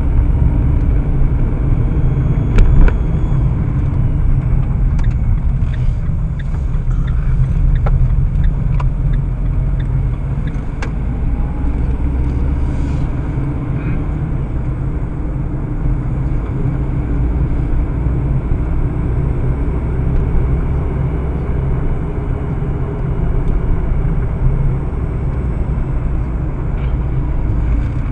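Steady low rumble of a car driving, engine and road noise, with a few faint clicks and a brief louder knock about three seconds in.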